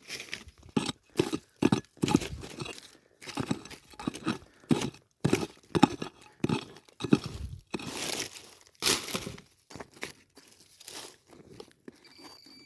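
Digging and scraping in stony soil: irregular crunching strokes, one or two a second, as dirt and small stones are scraped away to recover a buried musket ball.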